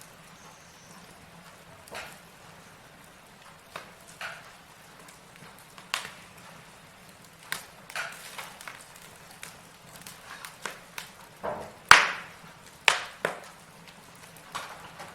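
Burning logs crackling in a fireplace: scattered sharp pops and snaps at irregular intervals, the loudest about twelve seconds in, followed by a quick run of pops.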